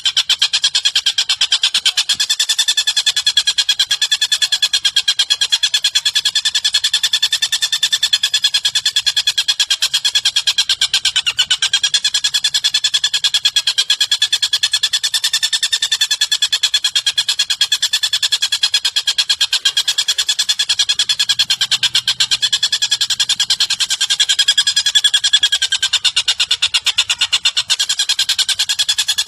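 A songbird's rapid trill, many quick pulses a second with no break, wavering slightly in pitch.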